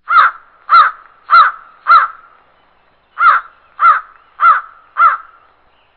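A bird giving eight loud calls, each arching up and down in pitch, in two runs of four with a short pause between them.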